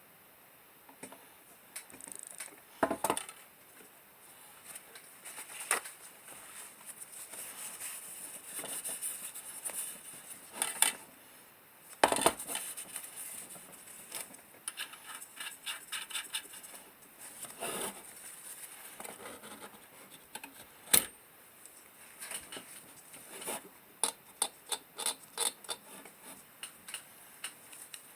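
Small metal clinks, clicks and taps of a tin oil lantern's parts being handled, coming irregularly, with a few louder knocks and runs of quick light clicks.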